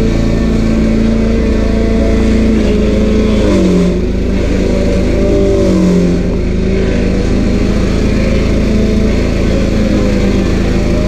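Stump grinder's 13 HP Honda single-cylinder engine running hard as the cutter wheel grinds into a stump. The engine pitch sags briefly under load twice, about four and six seconds in, and recovers.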